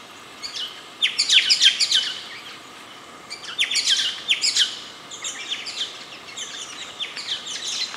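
Small birds chirping in the bush: quick, high, falling notes in three bursts over a steady background hiss.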